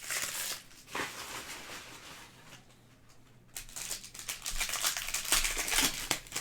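Trading-card pack wrappers crinkling as packs are opened and cards handled, in bursts with a quieter lull in the middle.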